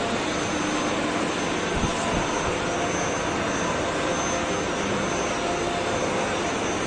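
Injection molding machine running: a steady mechanical whirring noise, with a brief low thump about two seconds in.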